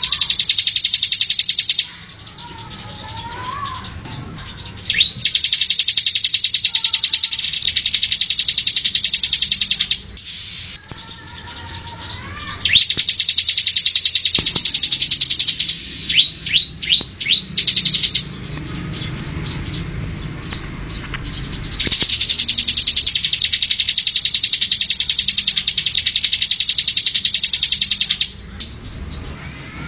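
Bar-winged prinia (ciblek) singing: four long, very rapid, high buzzy trills of several seconds each, with short sharp notes and softer chirps between them.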